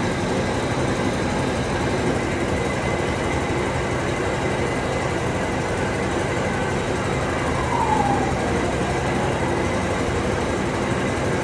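Steady mechanical running noise from workshop machinery, with a brief falling squeal about eight seconds in.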